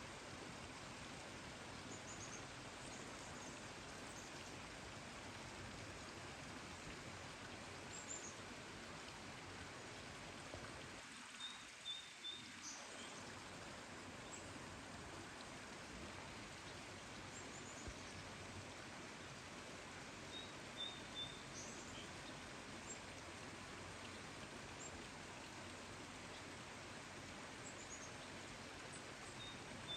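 Small birds chirping faintly: short high calls scattered every few seconds, some in quick runs of three notes, over a steady hiss.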